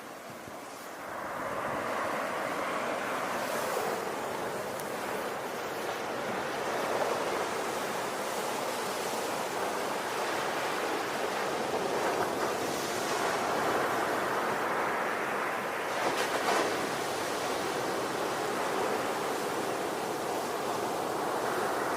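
Ocean waves breaking and washing on a shore, a continuous surf wash that swells and eases every few seconds, with brief brighter hissing as waves break.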